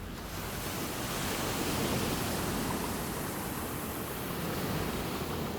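Sea surf washing onto the beach: a steady rush of breaking waves that swells to its loudest about two seconds in and again more gently near the end.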